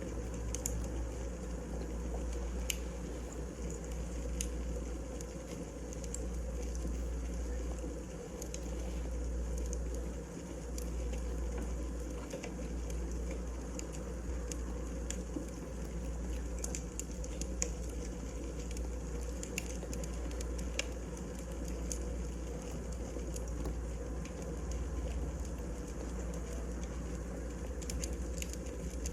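Wood fire burning in a fireplace: a steady low rumble with scattered crackles and pops of burning firewood.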